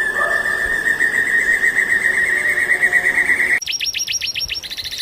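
Bird calling: a long, rapidly trilled note held at one pitch and rising slightly, then, after an abrupt cut about three and a half seconds in, a fast series of high chirps that each drop in pitch.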